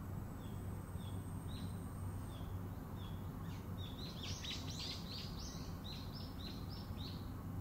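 Small birds chirping. At first single high chirps come at a steady pace, about two a second. From about halfway, a quicker, denser run of chirps lasts roughly three seconds, over a low steady hum.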